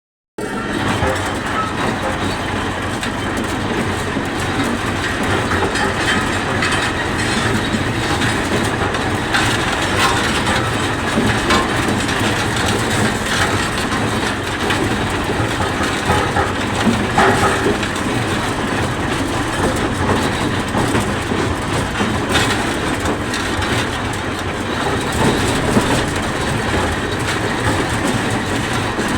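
Britannia Road Master road roller running, its diesel engine going steadily under a continuous mechanical rattle, with a few brief knocks.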